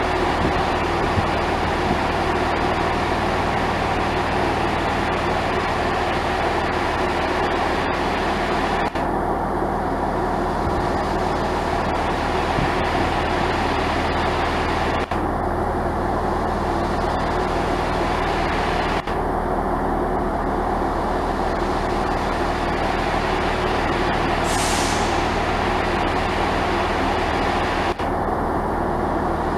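Diesel train engine running steadily at idle, a low even drone. About three-quarters of the way through comes a short high hiss of released air.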